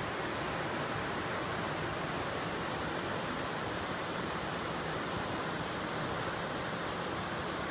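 Steady rushing of a stream or river running high with water after heavy rain, an even noise without breaks.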